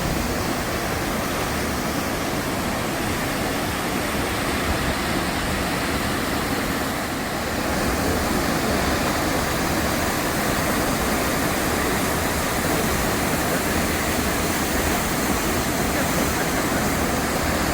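Horsetail Falls, a waterfall in the Columbia River Gorge, giving a steady rush of falling water that grows a little louder about eight seconds in.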